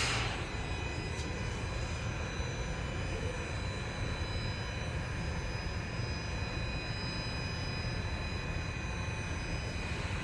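A Toronto Rocket subway train standing at the platform gives off a steady hum with several high, steady whining tones over a low rumble. A short hiss comes right at the start.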